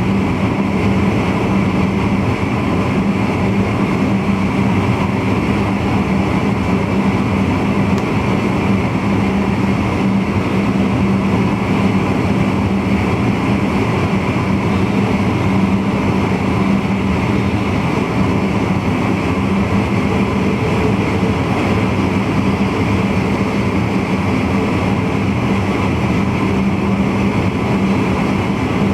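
VIRM double-deck electric intercity train running steadily, heard from the driver's cab: continuous running noise with a steady low hum.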